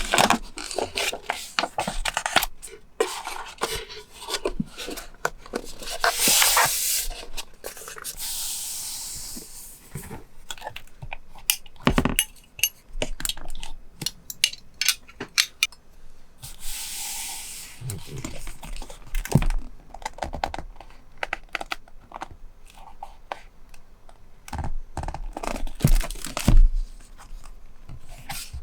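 Paper and stationery being handled for scrapbook journaling: paper rustling, rubbing and tearing, with many small taps and clicks and a few longer tearing strokes.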